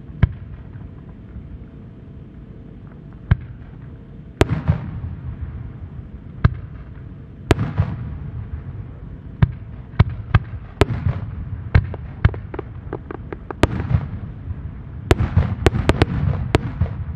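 Aerial firework shells bursting overhead: sharp bangs at irregular intervals, the bigger ones trailing off in a rumble, coming thick and fast near the end.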